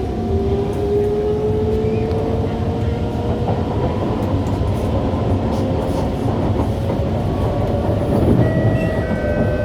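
Kawasaki C151 MRT train accelerating, heard inside the carriage: its traction motors whine, the pitch rising over the first few seconds and then holding steady, over a continuous rumble of wheels on the track. A few thin higher tones join near the end.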